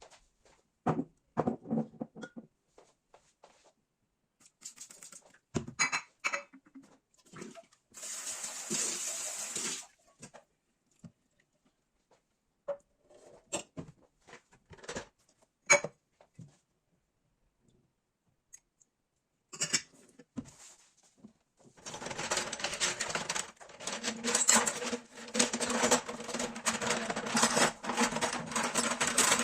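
Household handling sounds in a small kitchen: scattered knocks and clicks of objects being set down and moved, a hiss lasting about two seconds a third of the way in, then busy, continuous rattling and rubbing through the last third.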